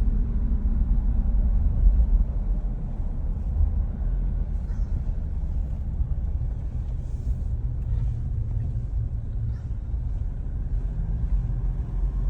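Toyota Fortuner SUV driving: a steady low rumble of road and engine noise, with a few faint ticks.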